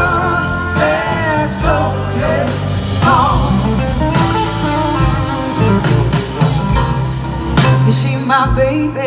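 Live blues-rock band playing, with an electric guitar lead sliding in pitch over bass and a steady drum beat.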